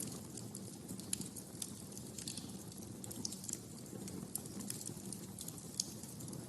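Wood fire crackling in a fireplace: irregular sharp snaps and pops, several a second, over a low steady rush of the flames, with one louder pop near the end.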